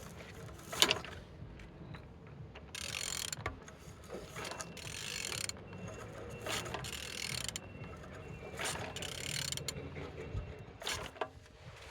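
Engine being turned over by hand, its crankshaft rotated with a wrench in repeated strokes that give mechanical clicking and rasping. It turns freely, a sign the engine is not seized.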